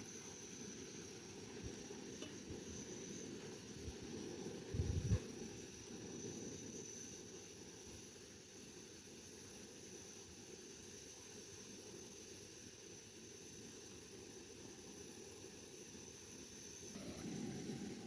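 Food sizzling faintly in a pan over a wood fire, with a few small crackles and a brief low thump about five seconds in.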